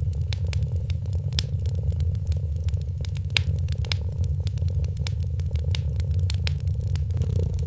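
Wood fire crackling in a fireplace, with many sharp irregular pops and snaps, over a cat's steady low purring.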